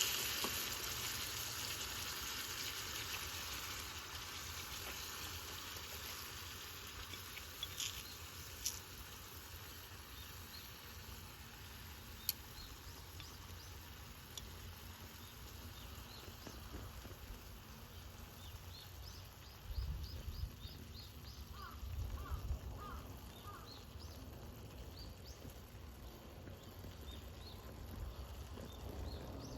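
Frying sizzle over a small fire pit, fading over the first few seconds into faint outdoor ambience with a few sharp pops. Small birds chirp in quick series about twenty seconds in, with low thumps of noise around the same time.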